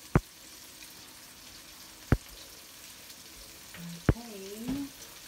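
Shrimp, garlic and onion frying in a wok, a faint steady sizzle. A sharp tick cuts through it about every two seconds, three times in all.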